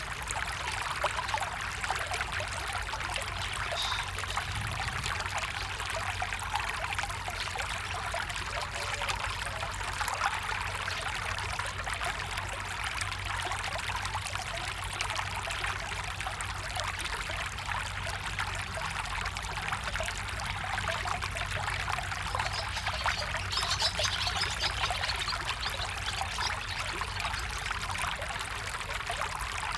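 Small stream flowing and trickling steadily.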